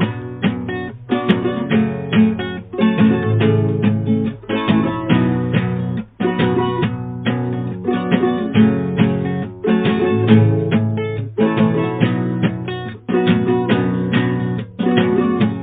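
Instrumental music: acoustic guitar strummed in a steady rhythm, with no singing.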